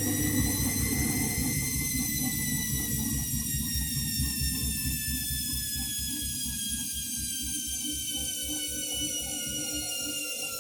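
Candy washing machine's motor whining as the drum spins. The whine falls slowly in pitch as the drum winds down, over a fast, even low beat from the turning drum.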